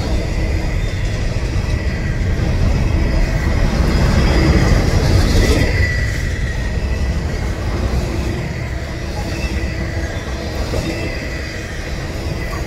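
Norfolk Southern double-stack intermodal train's container-laden well cars rolling past close by: a steady low rumble of steel wheels on the rails, swelling a little about four seconds in, with a faint high wheel squeal around the middle.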